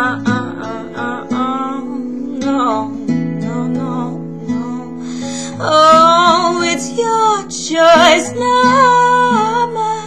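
Acoustic guitar strumming chords, with a sung vocal line held over it from about six seconds in, wavering in pitch.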